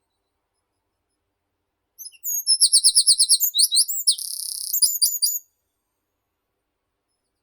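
A songbird sings one song phrase about two seconds in, lasting about three and a half seconds. It opens with a quick run of repeated high notes, passes through a short buzzy stretch and ends with a few sharp notes.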